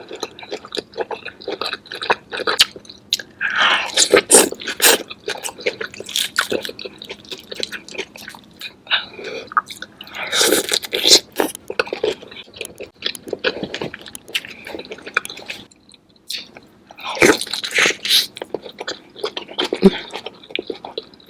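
Close-miked eating of a saucy seafood boil: a person chewing and biting with wet smacking and sharp clicks, and occasional crunches, in irregular bursts.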